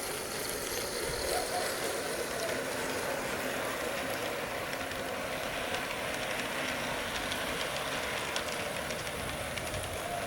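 G-scale model train running on its outdoor garden track: a steady motor and gear hum, with faint clicks of the wheels over the rails.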